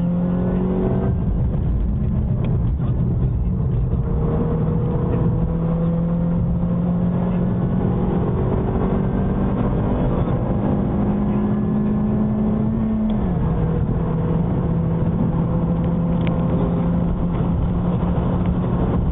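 BMW 316i E90's four-cylinder petrol engine under hard acceleration. Its pitch climbs steadily through each gear and drops at upshifts about a second in and about thirteen seconds in.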